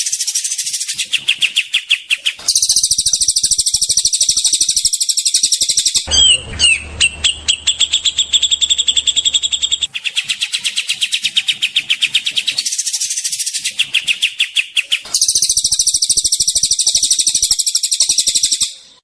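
Songbird giving loud, harsh, very rapid trills of repeated high notes, in blocks of a few seconds that break off and start again abruptly.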